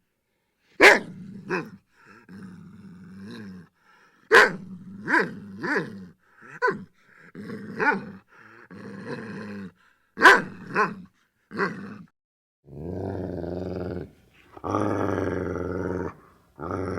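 Dogs barking in a run of sharp, short barks, then growling in long, steady snarls over the last few seconds.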